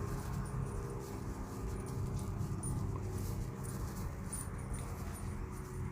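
Faint, irregular dog sounds from a young German shepherd, over a steady low hum.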